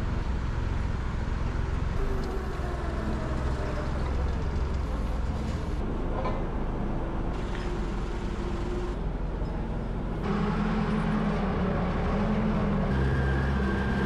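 An engine running steadily, its pitch and level stepping up about ten seconds in and again near the end.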